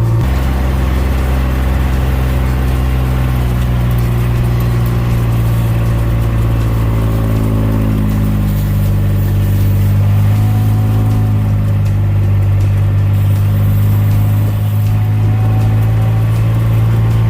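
Kubota RTV1140 utility vehicle's three-cylinder diesel engine running steadily as it drives along, heard from on board. Its pitch dips and rises a few times midway as the speed changes.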